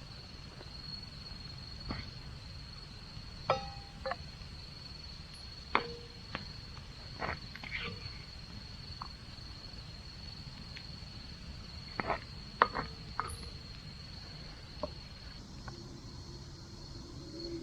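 A cricket-like insect trilling on one steady high note, with a dozen scattered sharp clicks and knocks, the loudest about twelve and a half seconds in.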